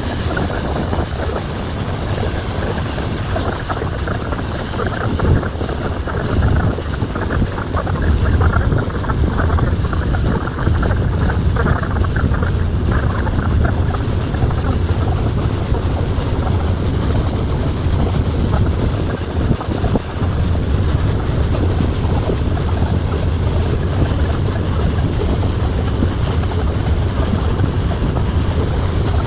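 Steady engine drone and rushing wind noise aboard a moving cruise boat.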